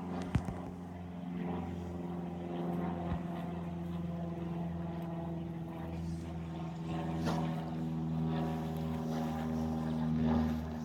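An engine running steadily with a constant low hum, with a couple of sharp clicks about half a second in.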